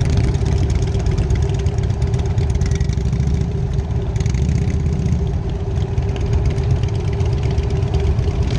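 1999 Harley-Davidson Night Train's air-cooled V-twin engine running steadily with a deep low rumble and no clear change in revs.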